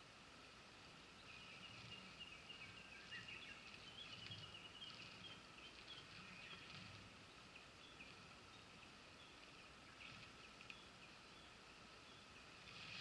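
Faint murmur of a mountain stream, with a small bird's high, broken song over it from about a second in until the middle.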